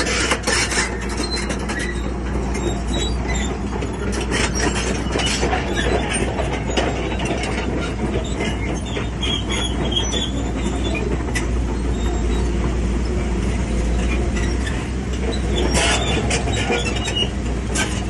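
Crawler bulldozer at work: a diesel engine runs steadily under a constant stream of metallic clanking and squealing from the steel tracks.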